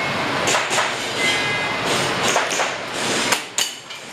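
Airsoft pistol shots in a rapid string, sharp cracks every third to half second, over a steady rushing background that cuts off abruptly near the end.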